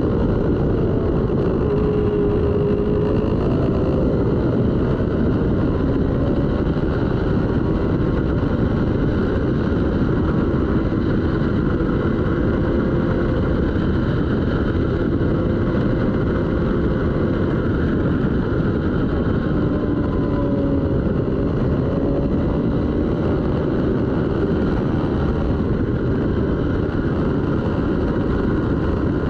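Twin-cylinder racing motorcycle engine running hard under a dense, steady rush of noise, its pitch gliding up and down as the revs change.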